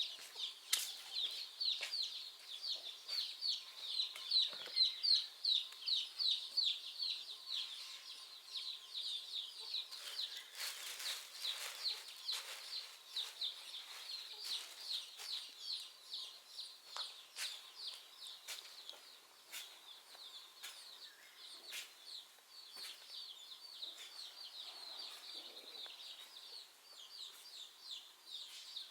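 Chicks peeping over and over, short high calls at about three a second, louder in the first half and softer later on.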